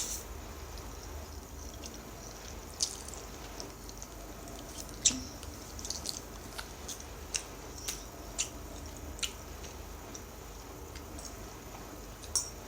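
Eating noodles close to the microphone: scattered wet mouth smacks and clicks of chewing, about a dozen short sharp sounds, the loudest about five seconds in.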